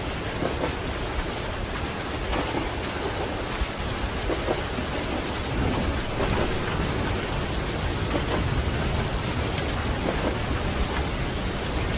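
Steady rain mixed with the low, continuous rumble of a moving train, with a few faint, soft knocks of the wheels.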